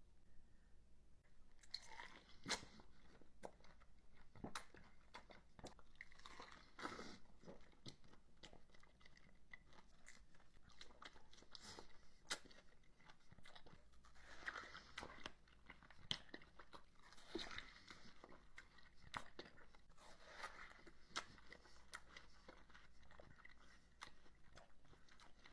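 A person biting and chewing fresh fruit close to the microphone: faint, irregular crunches and wet chewing clicks.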